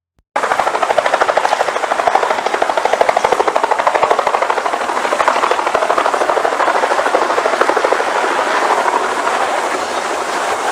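An engine running steadily with a rapid, even pulsing beat. It starts abruptly just after the beginning.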